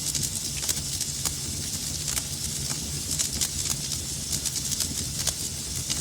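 Wood fire burning in a fireplace, with irregular sharp crackles and pops several times a second over a steady low rumble and hiss.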